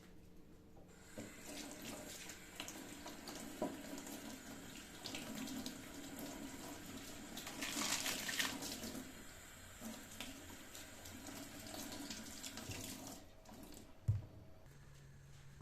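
Kitchen tap running into a sink, starting about a second in and shutting off about two seconds before the end, followed by a single short knock.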